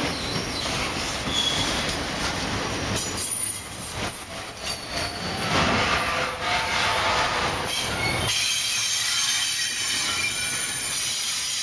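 Double-stack container well cars of a freight train rolling past, their steel wheels rumbling on the rails with several thin, high-pitched wheel squeals over the top. About eight seconds in the rumble eases and the high squealing tones carry on.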